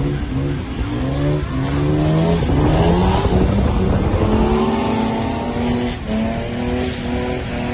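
A car engine revving hard under acceleration, its pitch climbing in steps, then held steady high in the revs for the last few seconds.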